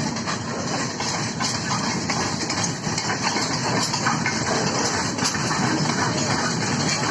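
Indian Railways train running: a steady rumble and rattle of wheels on the rails, with faint clicks.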